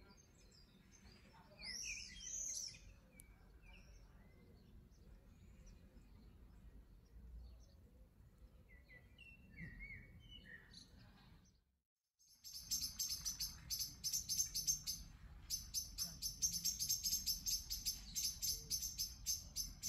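Birds chirping: scattered short high calls and whistled glides, then, after a brief dropout about twelve seconds in, a louder, dense run of rapid high-pitched chirping.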